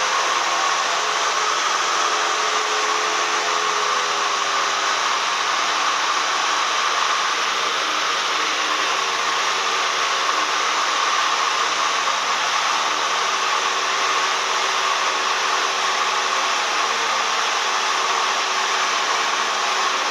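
Cessna 172M's four-cylinder Lycoming engine and propeller running steadily, a constant drone with a rush of air over it; the engine tones shift slightly in pitch about three to four seconds in.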